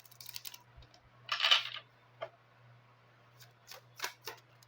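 A deck of Lenormand cards being handled and shuffled: scattered light snaps and clicks of the cards, with one louder brushing swish about a second and a half in.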